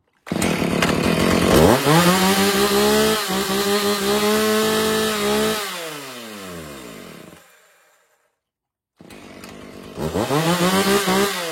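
A hot Husqvarna chainsaw, likely the 445, starts right away. It revs up and holds at high revs for a few seconds, then is shut off and winds down to silence. About nine seconds in it starts again, revs up and begins to fall away near the end.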